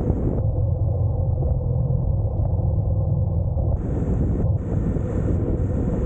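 Honda NC750X DCT's parallel-twin engine running steadily while the motorcycle is ridden, a low even rumble. A higher hiss comes and goes over it in the second half.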